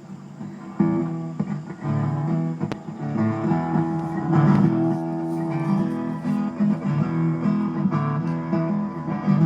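Instrumental intro of a song: guitar chords with a bass line, coming in fully about a second in.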